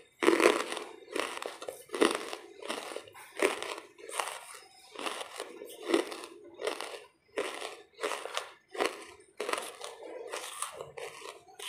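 Lumps of charcoal being chewed close to the microphone: a steady run of crisp crunches, about two a second.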